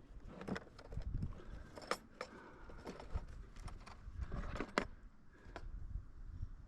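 A run of irregular clicks and knocks, with two sharper knocks about two seconds and about five seconds in, over a low rumble.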